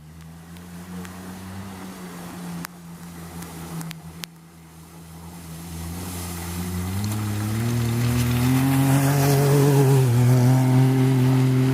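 A racing vehicle's engine running, then rising in pitch and growing much louder from about six seconds in as it speeds up, holding steady near the end. Two brief clicks come near the start.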